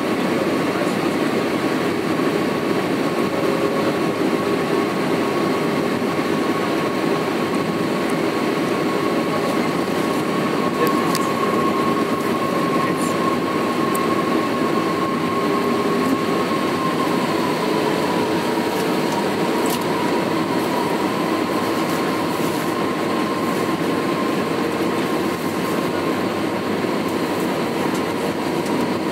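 Steady airliner cabin noise heard from a window seat of an Airbus A319-132 in flight: a broad rush of airflow and engine noise, with a thin steady whine from its IAE V2500 engines that drops slightly in pitch about two-thirds of the way through.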